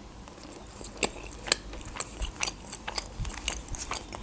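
A person chewing a mouthful of pizza close to the microphone: irregular sharp mouth clicks, several a second, starting about a second in.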